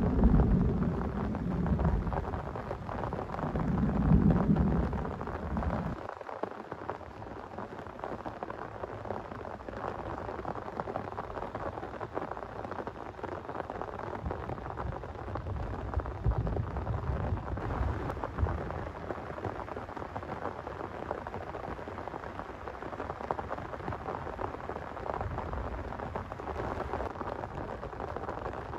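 Low rumble of thunder over heavy rain for about the first six seconds, cutting off suddenly; then steady heavy rain, with a fainter rumble of thunder about two-thirds of the way in.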